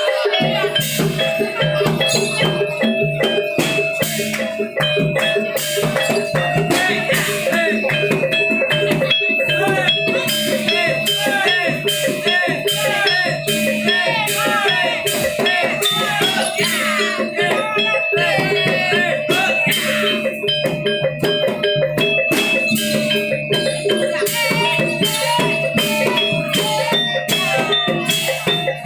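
Javanese barongan gamelan accompaniment playing continuously: drum strokes in a steady rhythm over sustained metallophone and gong-chime tones.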